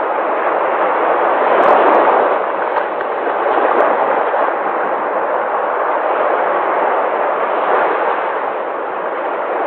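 Sea waves washing and breaking: a continuous rushing surf that swells and eases every few seconds.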